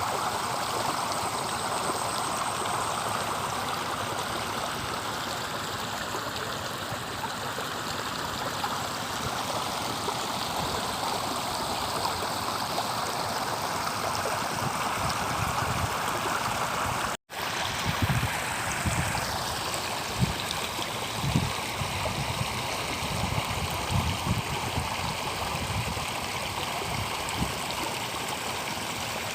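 Shallow river water flowing over rocks: a steady rush. After a brief break about two-thirds of the way through, irregular low thumps join in.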